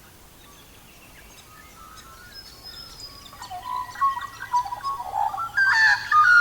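Birds chirping and singing, faint at first and growing much louder over the last couple of seconds.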